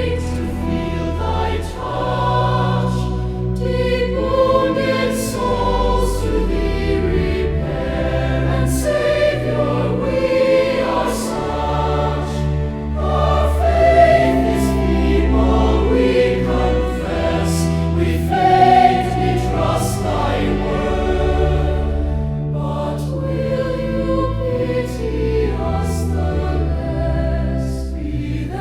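A choir singing a hymn over sustained low accompaniment notes that change every second or two.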